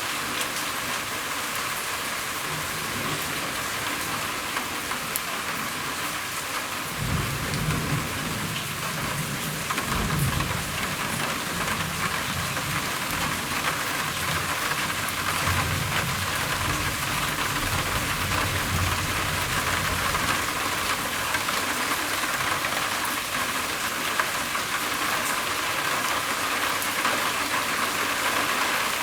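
Steady rain falling on a roof during a thunderstorm, with a low rumble of thunder that comes in about seven seconds in, swells a few seconds later and dies away before twenty seconds.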